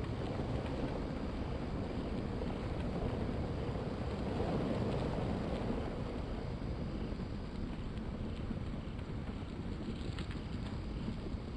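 Steady rushing wind noise on the microphone, swelling a little about halfway through.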